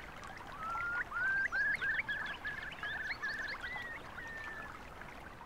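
A bird singing: a run of short whistled notes, each sliding up, that quicken into brief trills and end on a longer falling note. Fainter chirps sound higher up.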